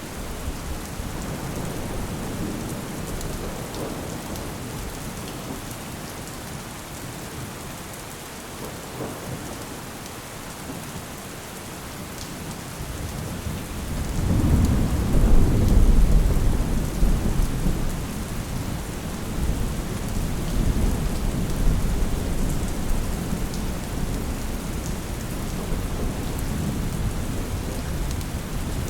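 Steady rain falling, with a deep roll of thunder that swells up a little before halfway, peaks, then rumbles on and slowly fades.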